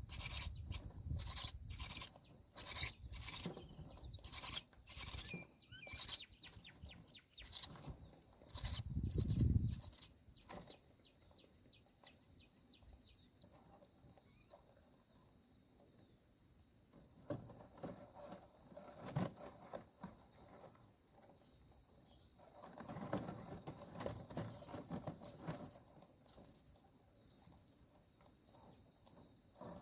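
Common myna chicks giving short, high, rapidly repeated begging calls, about one and a half a second, which break off about ten seconds in, with a low rumble just before they stop. Afterwards there is a steady high hiss, with bouts of rustling in the nest and a few fainter calls.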